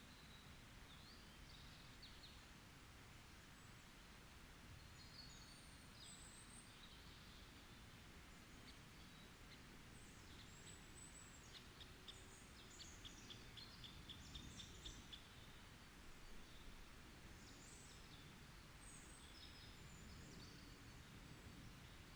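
Faint forest birdsong: scattered high chirps and short whistles from a few birds, with a quick run of evenly repeated notes about halfway through, over a low steady background hiss.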